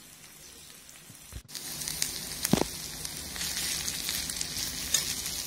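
Chopped garlic, ginger and red and green chillies frying in oil in a flat pan: a faint hiss at first, then after about a second and a half a loud, steady sizzle with scattered crackles and the scrape of a metal spatula stirring.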